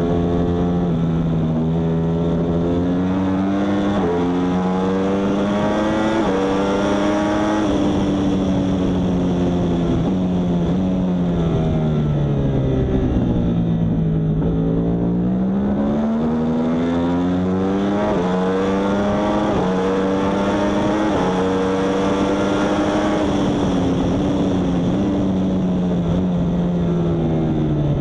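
Yamaha R1 superbike's inline-four engine at racing speed, pulling up through the gears with quick drops in pitch at each upshift, then falling in pitch as the bike slows for a corner, and pulling hard again through more upshifts.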